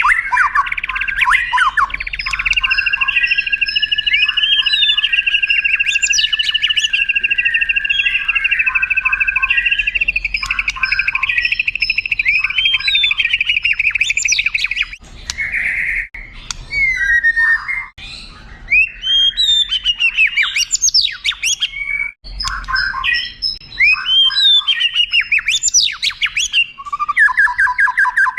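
White-rumped shama (murai batu) singing: a long rolling trill held for over ten seconds, then a run of varied sweeping whistles and chirps, and another trill starting near the end.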